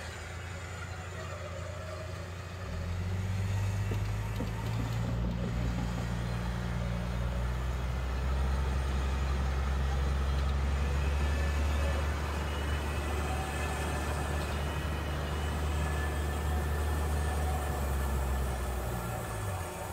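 Vehicle engine running under load with a steady low drone. It gets louder about three seconds in and drops away near the end.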